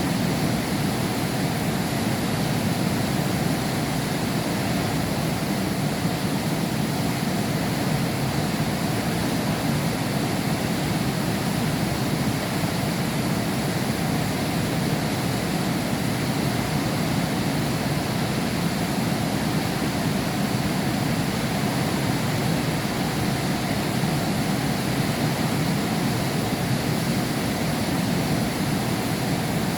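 Heavy rain heard from behind window glass, a steady dense hiss with most of its weight low down.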